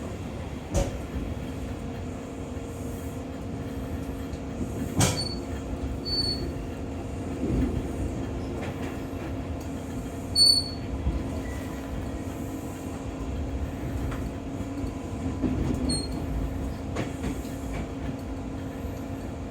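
Brisbane electric suburban train running between stations, heard from inside the carriage: a steady hum with rumbling wheel noise, a few sharp knocks as the wheels pass over rail joints, and several brief high-pitched wheel squeaks.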